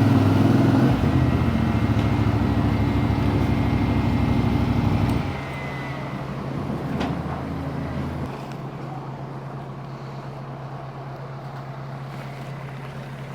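Motorcycle engine running steadily and loudly, then dropping abruptly about five seconds in to a quieter, steady low hum that fades further a few seconds later.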